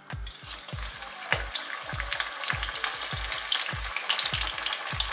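Beetroot and gram-flour vada batter sizzling and crackling as it deep-fries in hot oil in a small metal pan. The sizzle starts a moment in, as the batter goes into the oil, and grows to a steady crackle within about a second.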